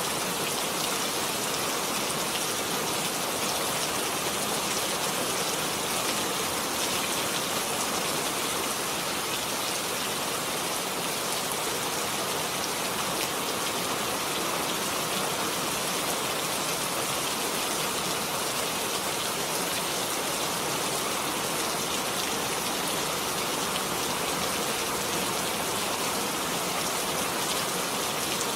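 Steady rainfall: an even, unbroken hiss of falling rain with no pauses or single loud drops.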